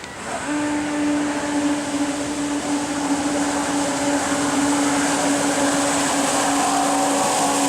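Home-built electric jet kayak's motors and jet drive running under power: a steady electric whine over a rushing hiss, starting suddenly in the first moment and holding.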